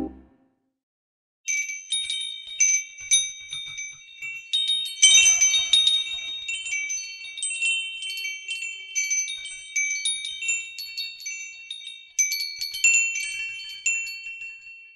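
Chimes tinkling: a few high, bell-like notes struck irregularly and ringing on, overlapping one another. They start about a second and a half in and come thickest around five and twelve seconds in.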